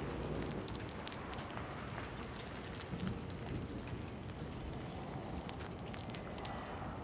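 Steady rain hiss with many scattered sharp drop ticks.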